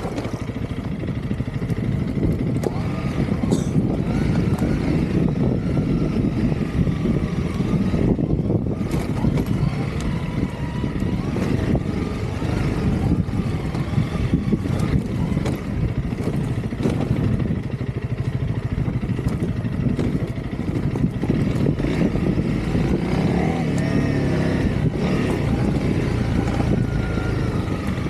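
Honda CRF300L dual-sport motorcycle's single-cylinder four-stroke engine running steadily while being ridden.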